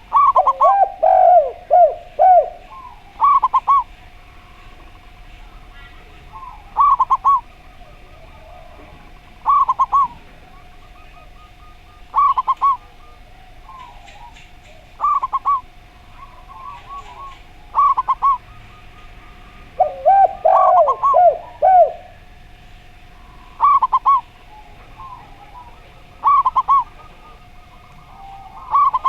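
Zebra dove and spotted dove cooing: a short phrase of quick coos about every three seconds, with two longer runs of lower, falling coos, one at the start and one about twenty seconds in.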